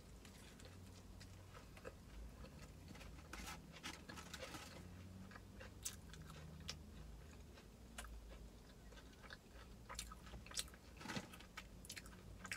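A person biting into and chewing a crispy fried chicken sandwich. Irregular crisp crunches come over softer chewing, faint throughout.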